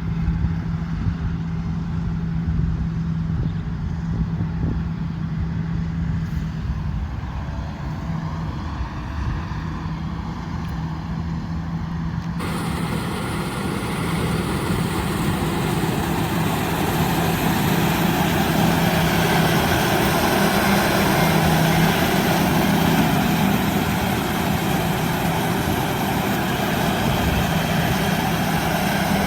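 Combine harvester engine running steadily at working speed with a constant hum. Partway through, a broad rushing noise comes in abruptly, and the sound slowly grows louder.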